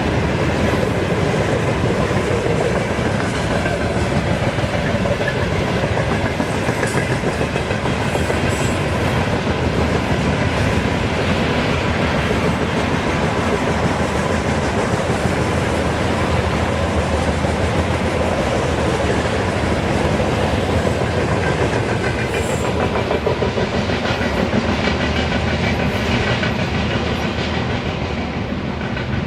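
Freight train wagons rolling past close by, their wheels clattering steadily over the rail joints. The noise eases a little near the end.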